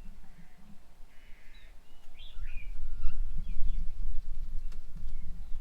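Birds calling with short chirps and whistles, over a low rumble that grows louder about two seconds in.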